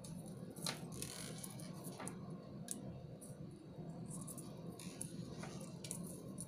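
Small plastic beads and metal pliers being handled, giving a few light clicks and ticks over a steady low hum.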